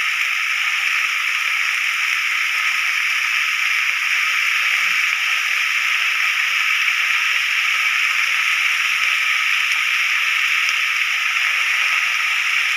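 Cut pumpkin and onion sizzling steadily in hot oil in a frying pan.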